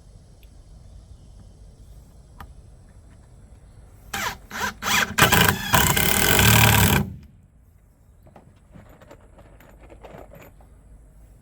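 A power tool worked on wood: four quick short pulses, then a continuous run of about two seconds that cuts off suddenly.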